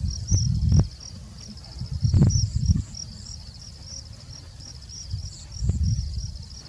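Insects trilling steadily in rapid, high-pitched pulses, with three short bouts of low rumble: at the start, about two seconds in, and near the end.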